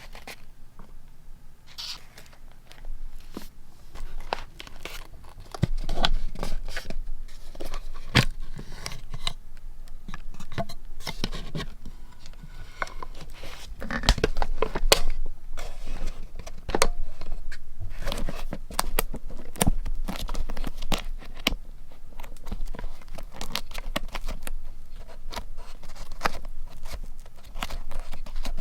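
Scrapbooking paper handled close to the microphone: sheets rustled, crinkled and torn, with many short sharp taps and clicks, busier and louder from about six seconds in.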